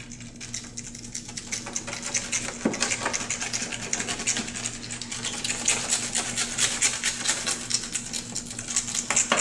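A blade scraping polyurethane spray-foam overspray off a vehicle's headlight, in quick repeated short strokes. The overspray has to be shaved off because polyurethane won't mill down like paint.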